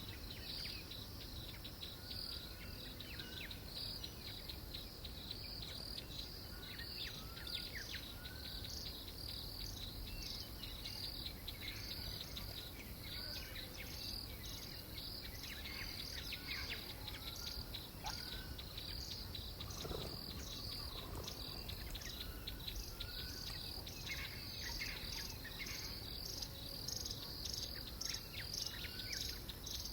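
A steady insect chorus of crickets, pulsing in a regular rhythm, with scattered short bird calls.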